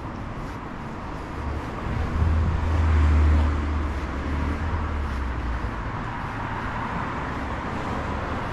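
A motor vehicle passing on a city street, its low engine rumble swelling to a peak about three seconds in and then fading, over steady traffic noise.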